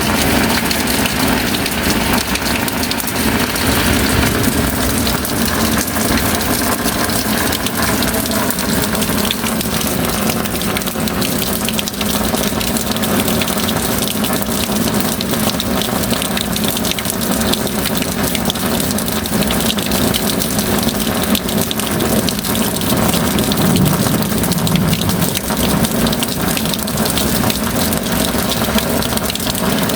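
Steady rain downpour: a dense, even patter of drops over a rushing, gushing wash of water.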